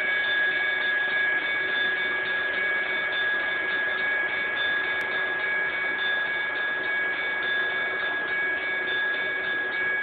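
HO scale model train running on the layout: a steady hum and whine with an even hiss, unchanging throughout.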